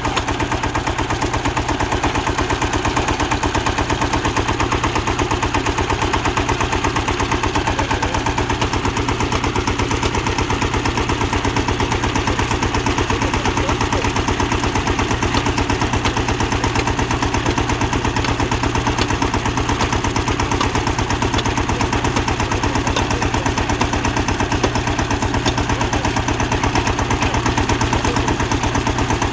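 Tractor-mounted borewell drilling rig at work: the tractor's diesel engine runs steadily with a rapid, even pulse.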